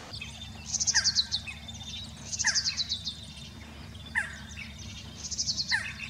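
A bird calling the same phrase over and over, about every one and a half seconds: a fast run of high notes together with a short falling note.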